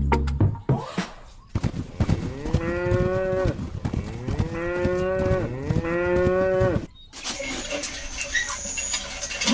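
A cow mooing three times in long, drawn-out calls, one after another.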